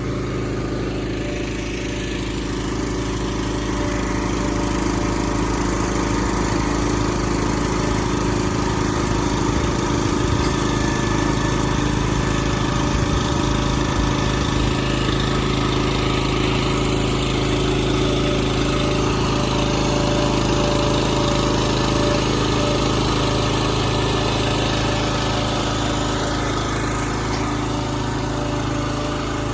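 Pack-Rat truck's engine running steadily while its lift loads a moving pod, getting a little louder a few seconds in.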